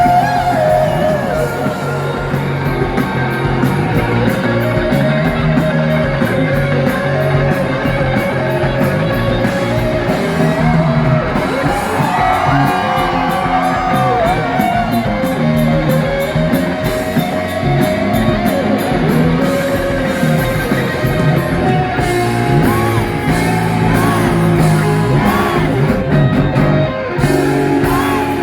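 Live rock band playing loud: electric guitar lines over bass and drums, with a fast, steady cymbal beat through the first third.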